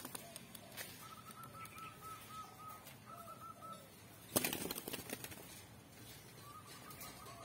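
A caged green pigeon: a bird calls in runs of short, repeated whistled notes, about four a second. About four seconds in there is a sudden loud flurry of wing flapping.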